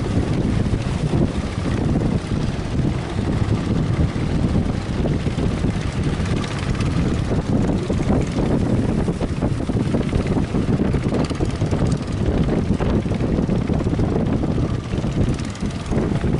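Strong wind buffeting the microphone: a loud, dense, steady rumble with no pauses.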